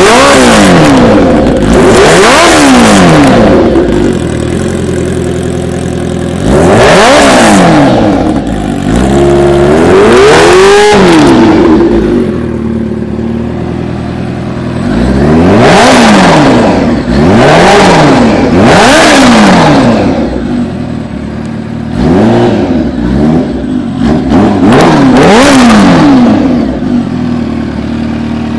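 Kawasaki H2R's supercharged inline-four engine revved about eight times in quick throttle blips, each rising and falling sharply in pitch, with one longer, higher rev about ten seconds in. Between revs it settles back to a lower idle.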